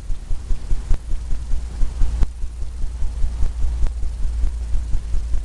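A paintbrush tapping repeatedly on a stretched canvas, a quick run of dull low thumps several times a second, with a few sharper clicks among them.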